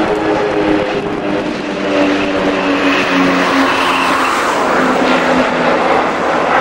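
Aircraft passing close by with loud engine noise, its engine tones sliding slowly down in pitch as it goes past.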